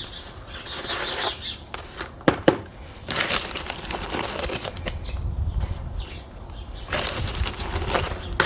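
Dry sand and cement being scooped and stirred in a bucket: irregular gritty scraping and rustling, with a few sharp knocks.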